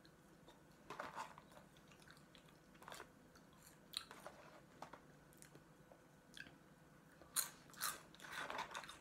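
A person chewing French fries close to the microphone: scattered soft crunches and mouth clicks, with a louder cluster of crunches near the end.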